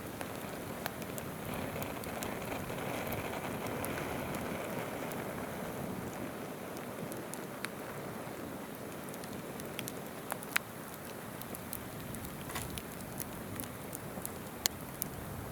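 Wood campfire crackling with scattered sharp pops, two louder ones about two-thirds of the way in and near the end, over the steady rush of a flowing river.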